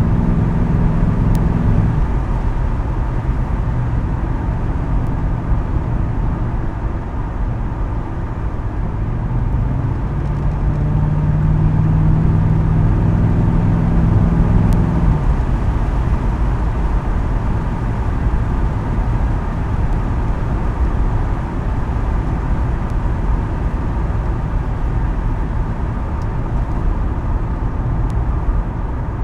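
2010 Ford Crown Victoria Police Interceptor's 4.6-litre V8 running through a custom exhaust with quad tips while driving, over a steady low rumble. The exhaust note swells near the start and again about ten to fifteen seconds in.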